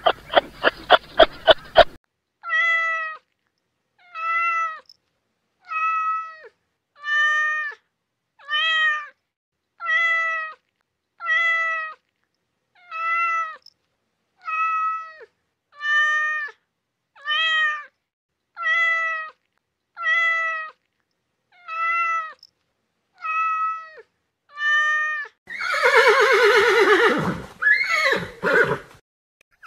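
Domestic cat meowing over and over, about sixteen short meows spaced roughly a second and a half apart, each bending slightly down at the end. Near the end a horse neighs, louder than the meows. A quick run of clicks fills the first two seconds.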